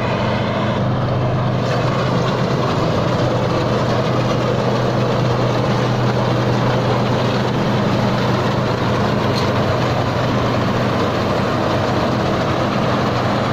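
Engine of a crawler rice combine harvester running steadily under load, together with the clatter of its harvesting machinery, as it cuts rice in deep mud.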